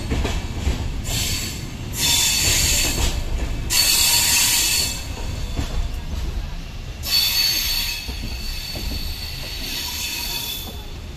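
Moving passenger train heard from inside the coach: a steady low rumble of the running gear, with several stretches of high-pitched squealing from the wheels, each a second or two long.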